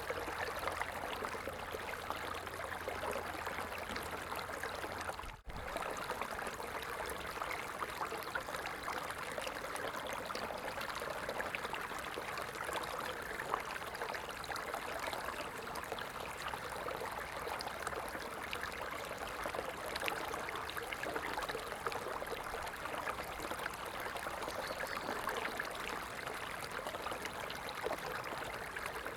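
Stream water flowing and trickling steadily, with a momentary break in the sound about five seconds in.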